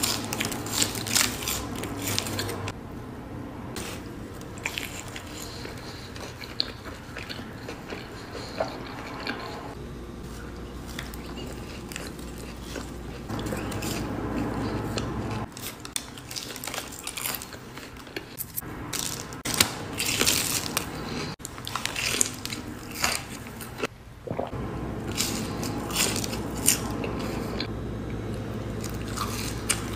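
Close-miked eating sounds of fried chicken wings: repeated crunchy bites and chewing, with wet mouth sounds.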